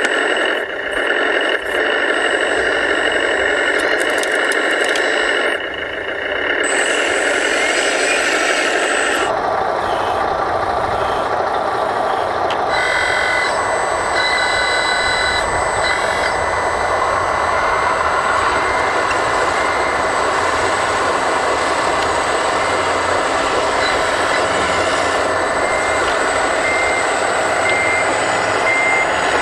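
Radio-controlled hydraulic construction models working, with a steady mechanical whine and rattle. A reversing beeper comes in about halfway through, and its regular beeps are clearest near the end.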